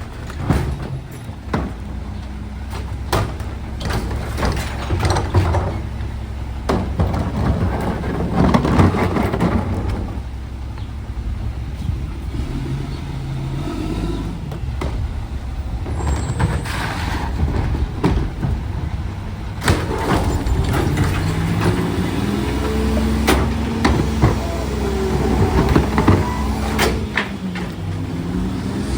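Garbage truck at work: its diesel engine running steadily, with repeated sharp knocks and clanks, and a whine that rises and falls in pitch near the end.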